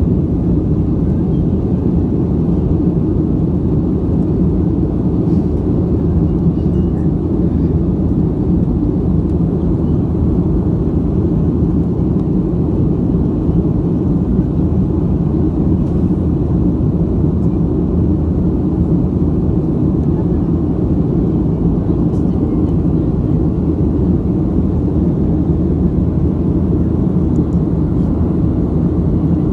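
Steady low rumble of a passenger airliner in flight, engine and airflow noise heard inside the cabin.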